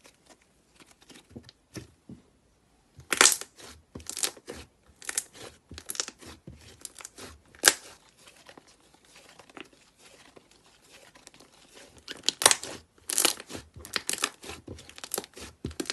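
Slime being handled, giving crisp crackles and pops in quick clusters: a few faint ticks at first, then two loud runs of crackling with a short lull between them.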